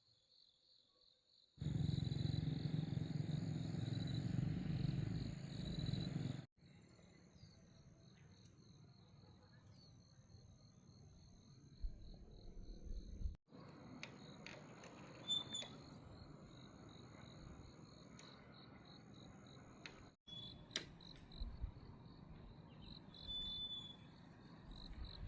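Insects chirping in a steady, fast pulsing high trill. The sound is cut abruptly several times, and for a few seconds near the start a loud low rumble plays under the chirping.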